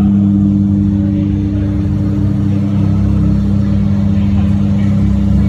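Mazda RX-7 FD's 13B twin-rotor rotary engine running at low, steady revs, a constant pitch with a pulsing low rumble and no revving.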